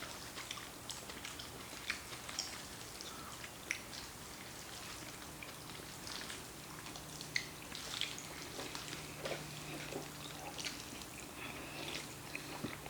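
Quiet eating of black bean noodles: many scattered small wet clicks and smacks of chewing, over a faint steady hum.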